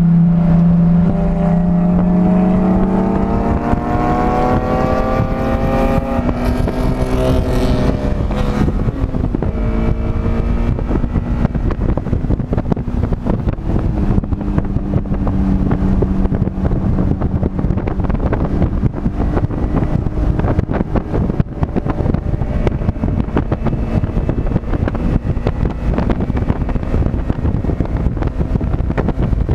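Onboard engine sound from a vehicle lapping a race track. It accelerates with rising pitch for about six seconds, drops back, then runs at steadier, lower revs with small changes. Strong wind buffeting runs under it.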